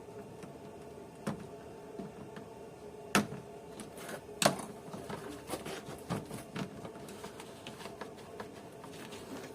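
Irregular clicks and knocks of hand work on a car's plastic parts under the windscreen, as a stuck part is worked and pried at, with two sharper knocks around three and four and a half seconds in. A steady low hum runs underneath.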